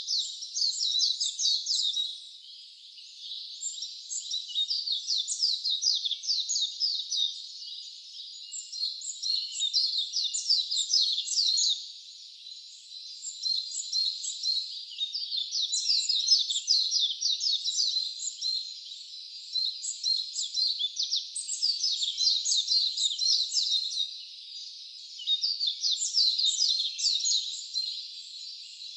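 Wild birds chirping in a dense chorus: rapid trains of short, high, down-sweeping notes that ease off briefly a few times.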